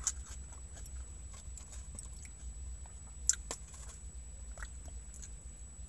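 Close-up chewing of a mouthful of crisp lettuce: scattered small crunches and mouth clicks, with one sharper click about three seconds in, over a low steady hum.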